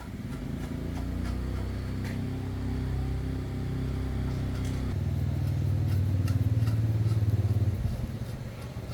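An engine running, its pitch and loudness stepping up about five seconds in, then stopping near the end.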